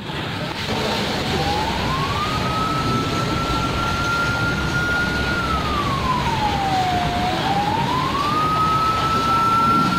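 A siren wailing slowly: it rises about a second in, holds high, sinks low around seven seconds in, then rises and holds again. Under it runs the steady rumble of vehicles on the road.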